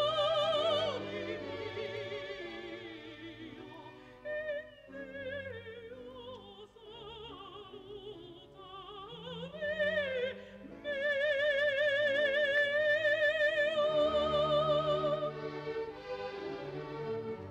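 Operatic singing with strong vibrato over orchestral accompaniment. A long sustained high note is held from about eleven to fifteen seconds in.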